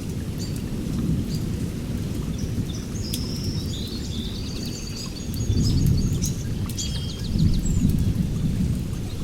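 Heavy rain with rolling thunder: a continuous low rumble that swells twice in the second half. A few faint high chirps sound in the middle.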